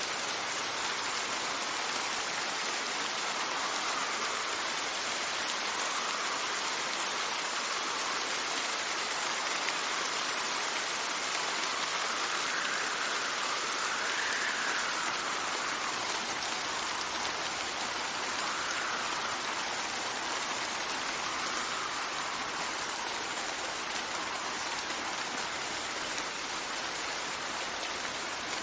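Steady rain falling, with wind gusting over it in soft swells that rise and fall in pitch every few seconds.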